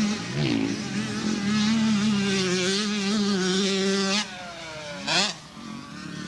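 Dirt bike engine held at high revs for about four seconds, its pitch wavering slightly, then easing off. About a second later comes one short, loud rev that rises and falls.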